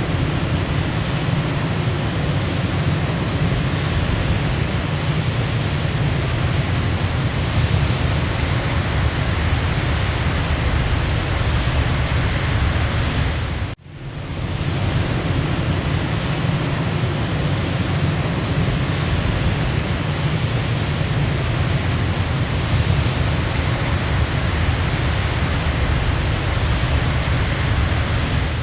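Waterfall: steady rushing water, heaviest in the low range. It cuts out for an instant about halfway through, then fades back in.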